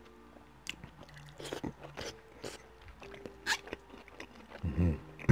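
Close-miked chewing of a Brussels sprout, with irregular wet crunches and mouth clicks.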